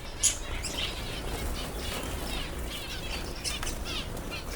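Small cage birds in an aviary chirping constantly, with a sudden flutter of wings about a quarter-second in and more wing-flapping through the rest.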